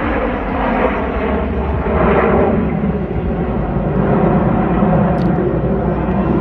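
Aircraft engine noise, loud and steady, growing a little louder about two seconds in.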